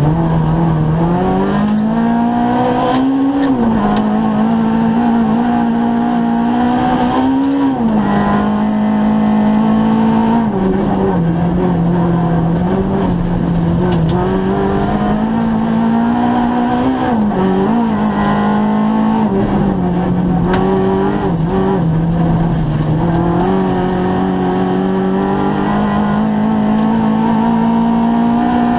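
Opel Corsa rally car engine at high revs, heard from inside the cabin. Its pitch climbs and then drops back sharply several times as it shifts gear at speed.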